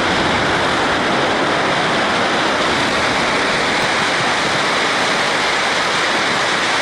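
A steady, loud rushing noise with no pitch and no rhythm, holding even throughout.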